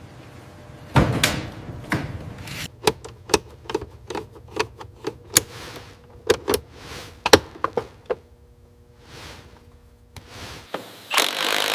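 A run of sharp mechanical clicks and knocks at an uneven pace, opening with one heavy knock, then a lull, and near the end a loud steady noise sets in.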